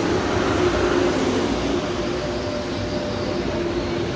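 Train running at a station platform: a steady mechanical noise with a low, even hum.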